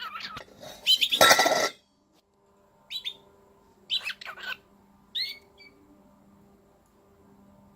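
Cockatiel giving one loud harsh call about a second in, followed by three short chirps about a second apart.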